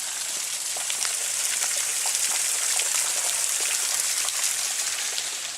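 Cold spring water falling from the top of a cave and splashing onto rock and wet ground: a steady hiss with many small drop hits.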